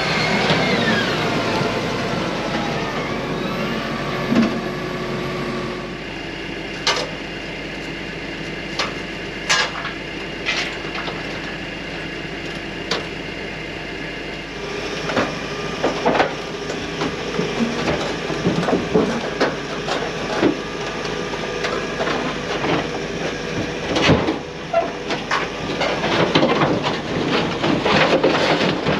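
Heavy diesel machinery running, its revs shifting in the first few seconds and then holding steady, with repeated sharp metallic clanks and knocks that come more often in the second half.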